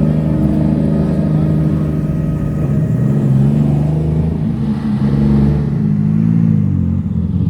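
Car engine running with a deep, steady exhaust note, its pitch dipping and rising slightly around five seconds in as the throttle changes.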